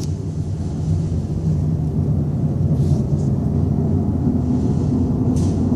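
Unexplained noise from the sky like a gas burner running: a loud, steady low rumble that holds without a break.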